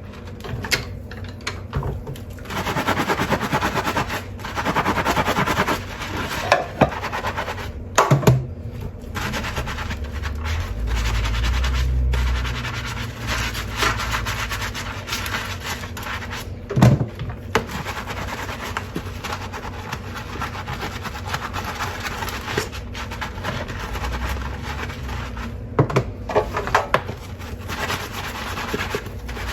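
Dishes being washed by hand: a sponge scrubbing with a rubbing sound, broken by sharp clinks and knocks of crockery, with a louder stretch of running water about ten seconds in.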